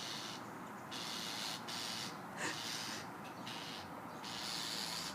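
A small bird giving a run of loud, harsh, hissing rasps, each about a second long with short breaks between them. The sound is like a chainsaw, and the bird is agitated.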